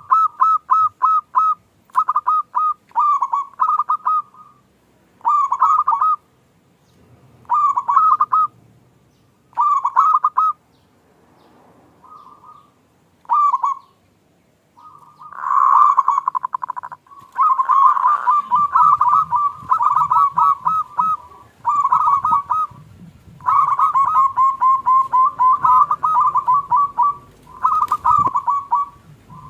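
Zebra dove (local perkutut) cooing: short phrases of rapid staccato notes, all at about the same pitch, repeated every second or two. After a few quieter seconds a bit past the middle, the phrases come more thickly.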